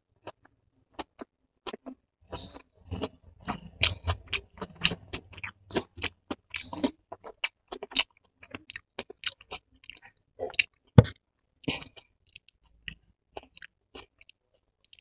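Close-miked chewing of a mouthful of soft food, with irregular wet smacks and clicks of the mouth. The clicks come thickest in the first half, and there is one louder sharp click about eleven seconds in.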